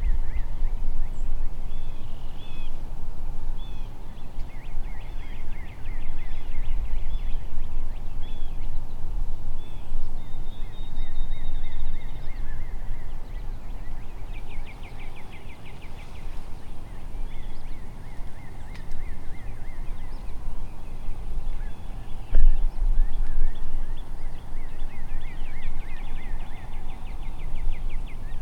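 Birds calling over and over in the woods, some calls quick rapid trills, over a steady low rumble of wind on the microphone.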